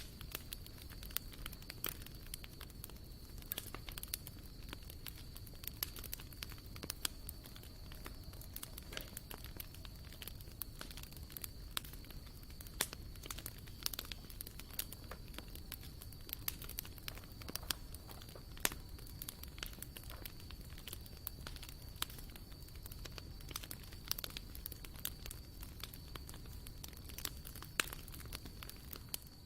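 Wood campfire crackling, with irregular sharp pops and snaps over a soft low rush of flame.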